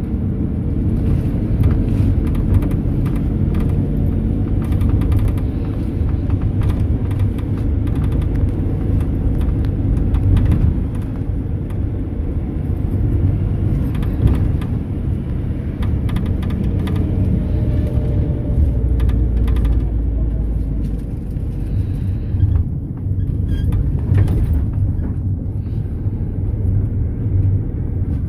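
Mercedes-Benz Sprinter minibus on the move, heard from inside the cabin: a steady low engine and road rumble with frequent small rattles and knocks.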